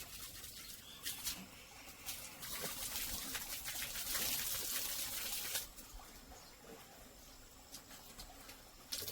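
Water running and splashing during washing, louder for about three seconds in the middle, with small knocks and clicks.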